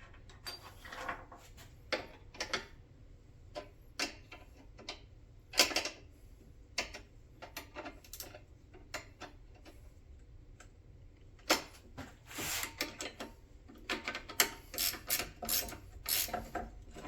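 Hand ratchet wrench clicking in short runs while a shifter switch's mounting fasteners are snugged down.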